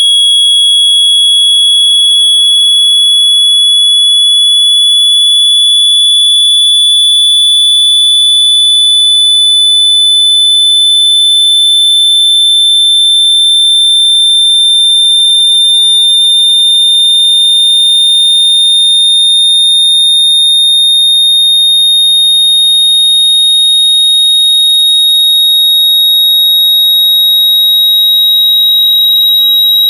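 Loud, high-pitched electronic sine tone, a water-eject speaker-cleaning tone, gliding very slowly upward in pitch without a break, with a fainter higher overtone above it.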